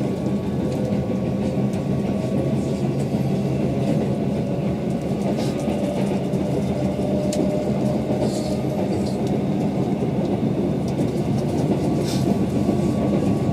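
Running noise inside a Keihan 8000 series electric train car under way: a steady wheel-on-rail rumble with a low hum, broken by a few brief high hisses about five, eight and twelve seconds in.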